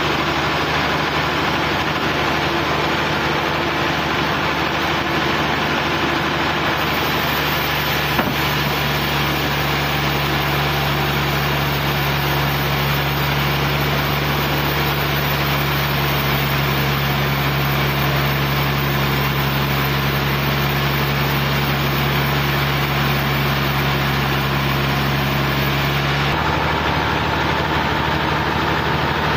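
Sawmill engine running steadily with a constant low hum; its tone shifts slightly about eight seconds in and again near the end.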